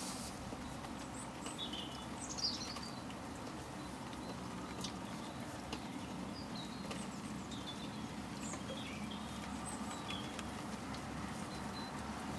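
Short, high bird chirps, scattered one or two at a time, over a steady low rumble, with a few faint clicks.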